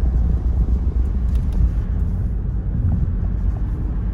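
Steady low outdoor rumble, heaviest in the deep bass.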